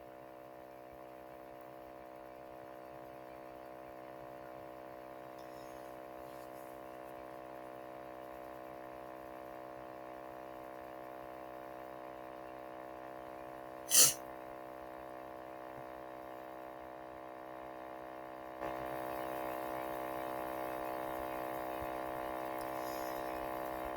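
Steady electrical hum with a buzz of many stacked tones and a light hiss, growing slowly louder and stepping up in level near the end. One short, sharp puff of noise about fourteen seconds in.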